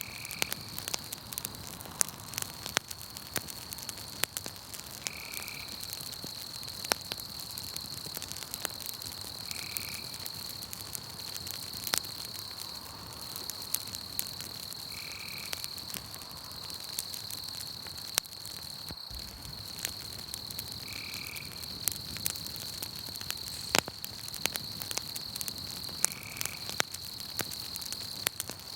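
Campfire crackling, with frequent sharp pops scattered through. Behind it runs a steady high-pitched drone of night insects. A short call repeats about every five seconds.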